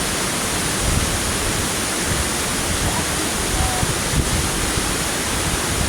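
Large waterfall in full rainy-season flow: a steady, loud rush of falling water.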